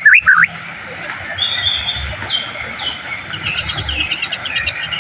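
White-rumped shama (murai batu) singing. It opens with loud swooping whistles, then gives higher short chirps and fast repeated trill notes.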